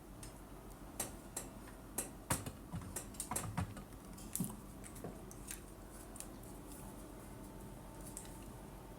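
Faint, irregular clicks and taps, coming thickly for the first five seconds or so and then thinning out, over a quiet steady background.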